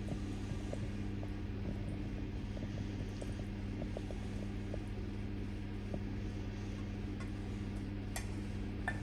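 Steady low hum in a kitchen, with faint scattered light taps.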